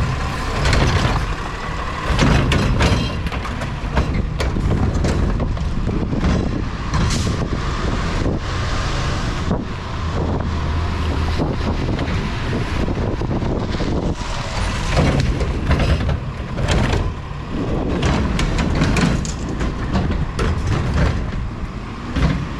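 Heil Curotto-Can recycling truck working close by: its engine runs steadily beneath repeated knocks and clatters, with a thin steady whine over the top.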